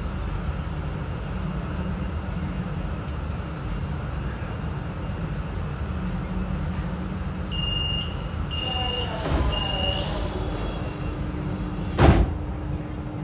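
Interior of a metro train standing at a platform, with a steady low rumble. Three short high beeps of the door chime sound about eight seconds in, then the sliding doors open with a loud thud near the end.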